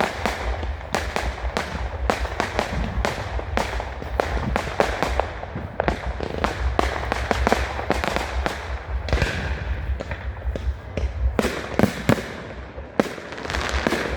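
Fireworks display going off in a dense run of sharp bangs and crackles, several a second.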